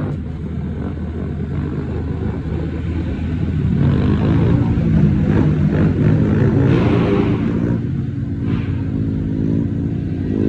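Several small mini-bike engines running and revving together, their pitches rising and falling and overlapping.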